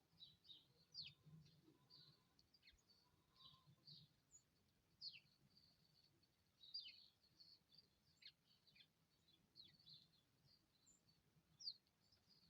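Faint bird chirping: many short, high chirps and quick falling tweets from small birds at a feeder, scattered irregularly.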